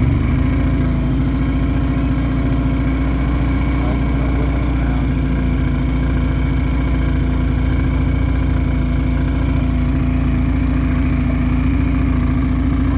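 Motorboat engine running steadily at an even speed, with a constant low hum.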